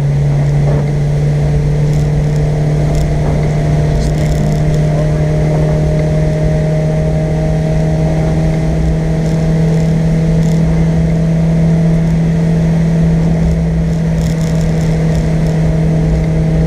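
Car engine pulling steadily under power out of a corner, heard from inside the cabin, its pitch climbing slowly as the car gathers speed, over road and tyre rumble.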